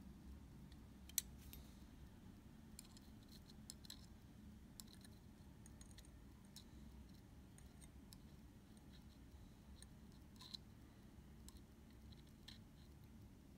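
Near silence with scattered faint, sharp little clicks and ticks, the sharpest about a second in: small tools and parts being handled while the Leica shutter curtain tapes are glued.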